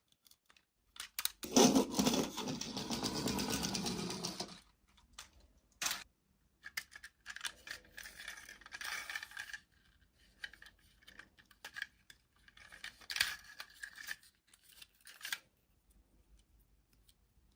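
Toy packaging being handled and opened: a few seconds of loud rustling or tearing near the start, then two shorter bursts of crinkling and rattling, with scattered clicks between.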